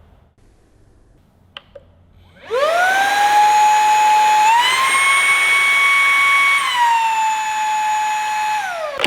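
Fanttik V9 handheld cordless car vacuum: a couple of small clicks, then its motor spins up into a high steady whine. Partway through the pitch steps up for about two seconds and drops back, and the motor winds down near the end.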